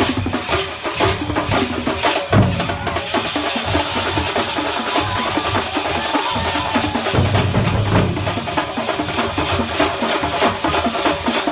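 Thambolam melam percussion ensemble drumming, a fast, steady beat of many drums with heavy bass-drum strokes coming in patches.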